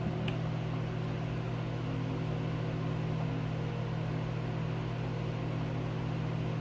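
A steady low machine hum with an even hiss over it, unchanging throughout, and one small click about a third of a second in.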